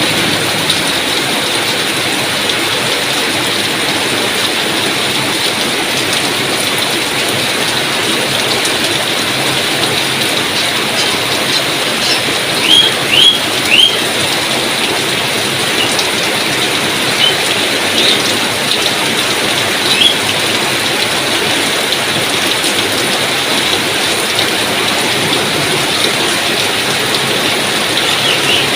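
Steady heavy rain falling. A few short high chirps cut through it around the middle.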